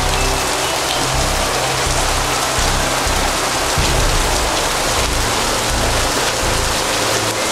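Heavy rain pouring down, a dense, steady hiss that starts abruptly.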